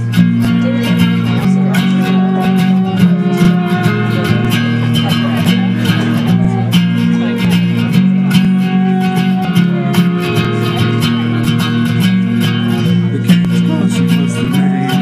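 Band music with guitars over a strong bass line and frequent sharp percussive hits, starting abruptly at full volume.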